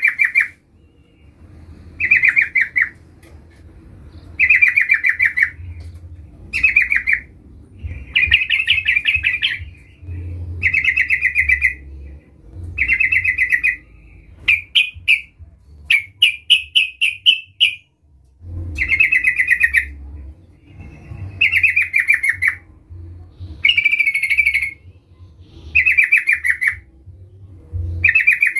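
Yellow-vented bulbul singing loud, bubbly chattering phrases, one about every two seconds, with a run of quicker, shorter notes about halfway through. This is the call of a vocal ('gacor') bird, used to provoke another bulbul into answering.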